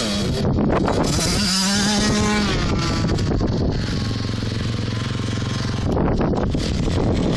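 Two-stroke KTM motocross bike engines running on the track under throttle, their pitch rising and falling as the riders rev and shift, with a steadier stretch in the middle.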